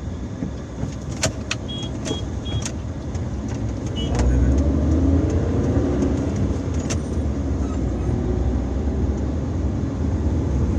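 Overloaded truck's engine labouring under load, growing louder with its pitch rising about four seconds in. Several sharp clicks and knocks sound in the first few seconds.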